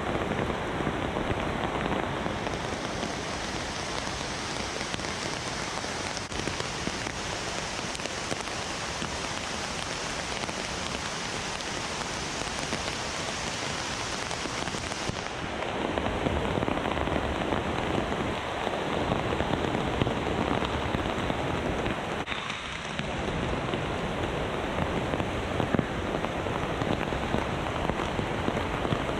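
Heavy rain pouring steadily, growing heavier and fuller about halfway through. A thin high hiss over it stops abruptly partway.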